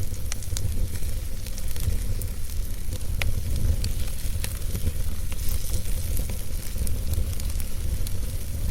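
Wood fire burning in a fireplace: a steady low rumble of flame with frequent sharp crackles and small pops from the logs.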